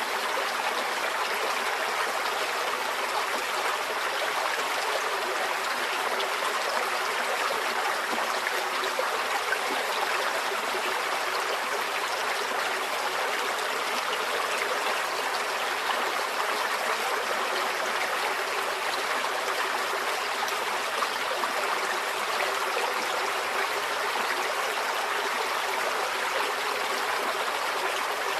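Shallow forest stream flowing and trickling over stones, a steady even rush of water.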